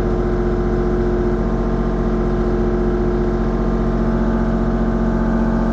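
Mini excavator's diesel engine running at a steady, unchanging speed.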